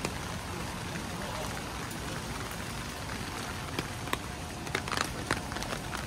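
Steady rain falling, with a few sharper taps of drops about four to five seconds in.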